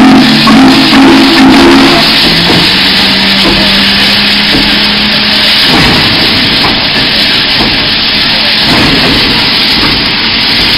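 Loud, steady rushing hiss from a steam train, with low steady tones fading out in the first couple of seconds and one low tone holding until about halfway.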